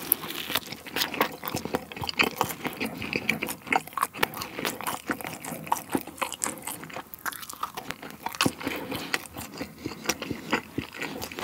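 A person biting and chewing cheese-filled pizza crust, close to the microphone: many quick, irregular clicks of chewing.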